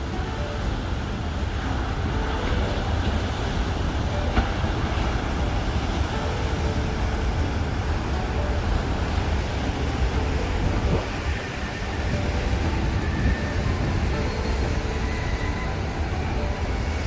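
Ocean surf: a steady, deep rumbling wash of breaking waves that holds an even level throughout.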